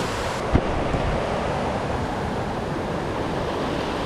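Stream water rushing, a steady even rush, with a single short thump about half a second in.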